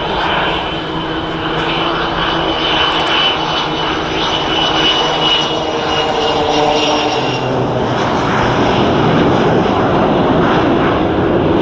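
Aircraft engines of a plane flying past, their tones slowly falling in pitch over the first seven seconds, then a louder, rougher engine noise building toward the end.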